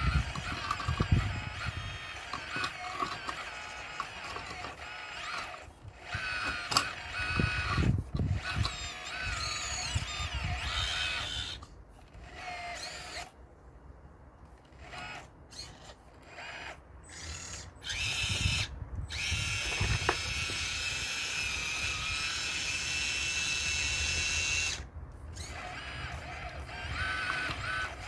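RC model excavator's motors whining as the machine works, stopping and starting and changing pitch, with a long steady whine in the second half. Low thuds of stones being knocked over come early on and again midway.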